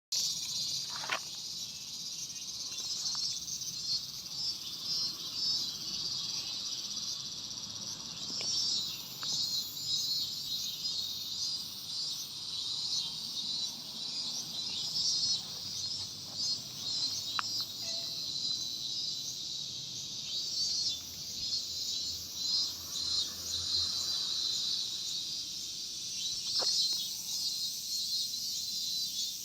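Steady chorus of summer cicadas buzzing, dense and high-pitched, with a fine pulsing texture. A few brief sharp sounds stand out over it.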